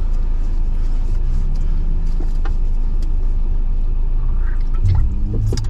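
2022 Jeep Wrangler JL crawling over a rough off-road trail, heard from inside the cabin: a steady low engine and drivetrain rumble whose pitch rises and falls with the throttle, with a few short knocks and rattles from the rocky ground.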